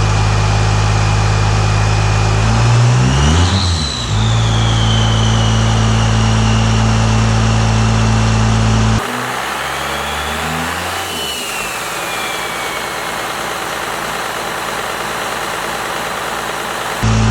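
First-gen Cummins 12-valve inline-six turbo diesel idling, blipped twice with a high turbo whistle that rises and falls away each time: a freshly installed turbo spooling quickly.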